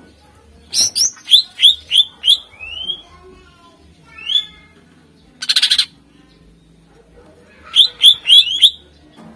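Greater green leafbird (cucak ijo) singing: a quick run of loud, upward-sweeping whistled notes, a single sweeping note, a short harsh rattle near the middle, then another quick run of sweeping notes near the end.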